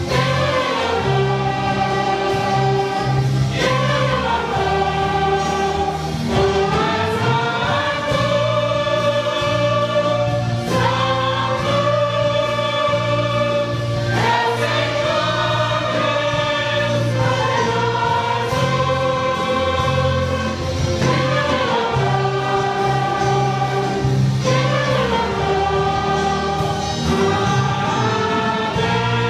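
A church orchestra playing a hymn in slow, long-held chords that change every second or two.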